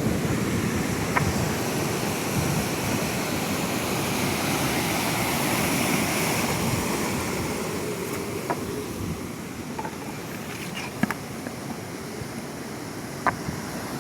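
Sea surf washing below the pier: a broad rush of noise that swells to a peak about six seconds in and then eases off. Wind is on the microphone, and there are a few faint ticks near the end.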